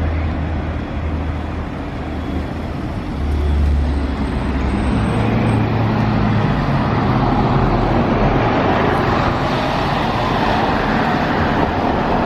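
Traffic noise from road vehicles running nearby, with a low engine hum early on. It grows louder about four seconds in and then stays steady.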